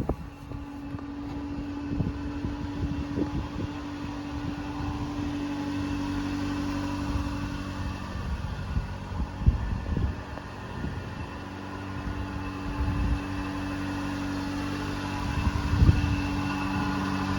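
Subaru Sambar kei truck's small 660 cc four-cylinder engine idling steadily, with a few short low thumps along the way.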